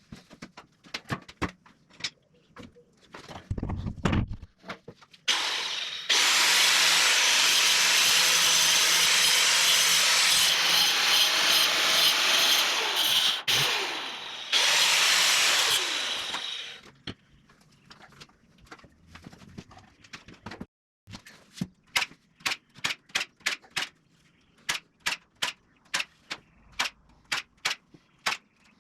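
A power saw runs and cuts wood for about ten seconds, dying away roughly halfway through. Before and after it come runs of quick, sharp knocks on wood, a few a second.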